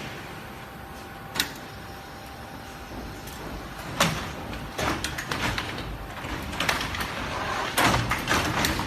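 Computerized single-head quilting machine running over a steady hum, with a sharp click about a second and a half in, then irregular clacks and knocks from about four seconds in.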